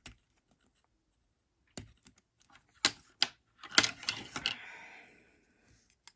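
Clicks and taps of small hard plastic parts being handled, with a short scraping rustle about four seconds in. These are the plastic foot pieces of a toy-figure upgrade kit being turned and flipped into position.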